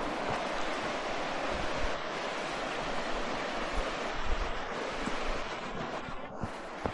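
Steady rush of falling water from a waterfall, with wind buffeting the microphone in uneven low rumbles and a couple of small knocks near the end.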